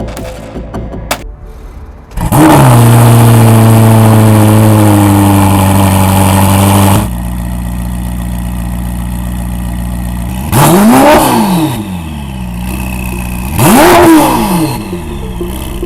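Ferrari SF90 Stradale's twin-turbo V8 starting about two seconds in, flaring and settling to a steady idle. It then idles and is revved twice in short blips, rising and falling, near 11 and 14 seconds.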